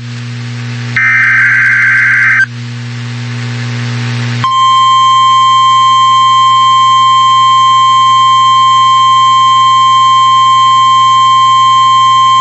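NOAA Weather Radio alert signal: a burst of the SAME digital header, a harsh warbling data tone about a second and a half long, then a couple of seconds of rising radio hiss. About four seconds in the steady 1050 Hz warning alarm tone starts and holds at full level, over a constant low hum.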